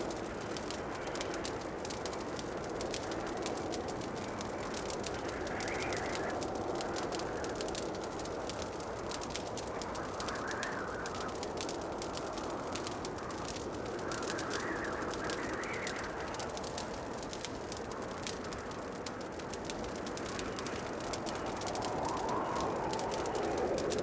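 Wood fire crackling, with a steady run of small sharp pops over a rushing hiss that swells gently every few seconds.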